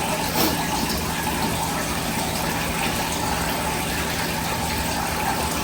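Hotsy pressure washer running steadily, its 16-horsepower engine humming under a constant rush of water through the pump.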